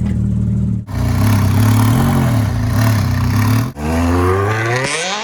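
Ferrari 360 Challenge Stradale's V8 engine running loud at a steady pitch. The sound breaks off abruptly twice, then the engine revs up in a steady rising climb near the end.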